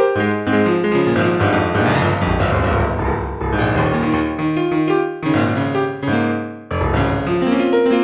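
Piano music: a run of quickly changing notes over sustained bass tones, with a brief dip near the end.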